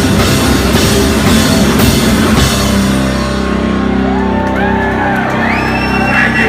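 Live heavy rock band playing loud, drums and crashing cymbals over distorted guitar, then about halfway through the drums stop and the final chord rings out as the song ends, with high tones sliding up and down over it.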